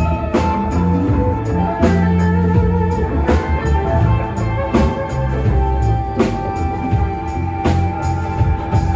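Live rock band playing an instrumental passage: electric guitar holding a long sustained note over bass and a steady drum beat.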